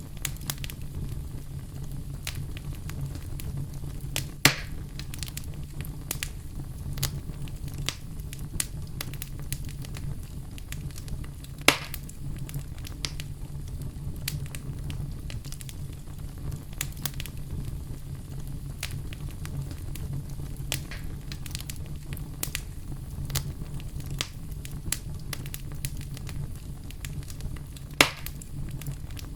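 Campfire crackling: a steady stream of small snaps and ticks over a low, even rumble, with three loud sharp pops at about 4, 12 and 28 seconds in.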